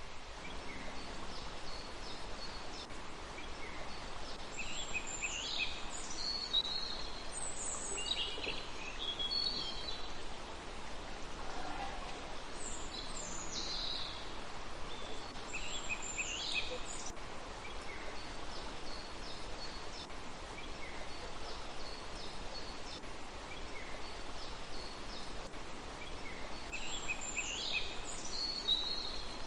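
Small songbirds chirping in short high bursts every few seconds over a steady, even rushing hiss like running water or falling rain.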